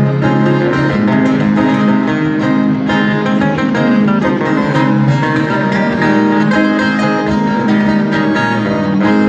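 Instrumental break of a Brazilian sertanejo raiz song: plucked string instruments, viola caipira and acoustic guitar, playing the melody with no singing.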